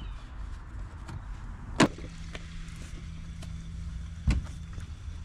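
Gasoline being poured from a gas can into a truck's fuel tank, with a faint steady hiss. Two sharp knocks, about two and a half seconds apart, interrupt it; the first is the loudest sound.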